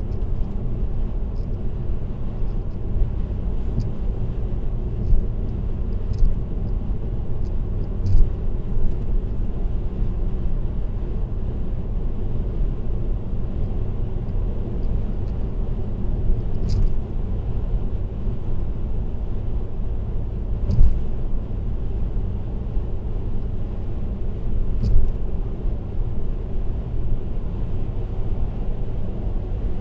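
Steady road and tyre noise with a low rumble from a car cruising on an expressway, recorded by a dashcam inside the car. A few short knocks and ticks break through now and then.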